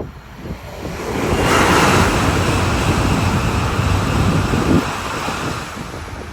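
A train passing at speed: a rushing noise that swells about a second and a half in, holds, then fades away, with wind buffeting the microphone.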